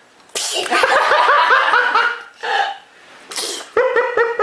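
A baby's sneeze, a sudden noisy burst, followed by high-pitched laughter in quick repeated bursts. A second sneeze about three seconds in sets off more laughter.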